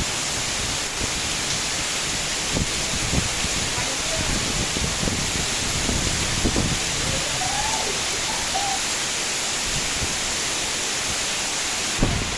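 Heavy rain pouring down steadily in strong wind, a loud even rush with irregular low rumbles from gusts.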